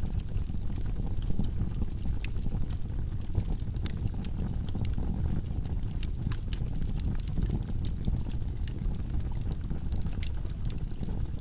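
Wood logs burning in a fireplace: a low steady rumble of flames with frequent sharp crackles and pops.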